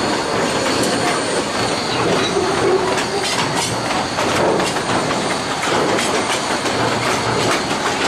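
Cedar Point & Lake Erie Railroad's narrow-gauge passenger train rolling along the track, heard from aboard. A steady rumble of wheels on rail, with irregular clickety-clack clicks.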